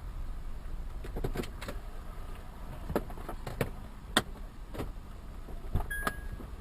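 A car's low road and engine rumble while driving, with irregular sharp clicks and knocks and a short high beep near the end.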